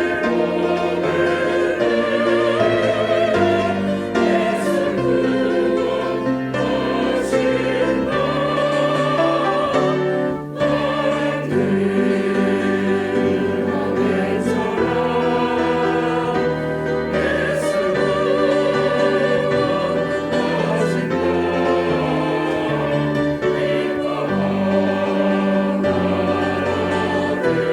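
Church choir singing an anthem in parts, with sustained, vibrato-rich notes and a brief break between phrases about ten seconds in.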